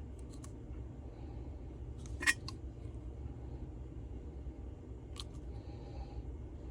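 A sharp click about two seconds in and a few fainter ticks, from small parts and tools being handled, over a steady low hum of room tone.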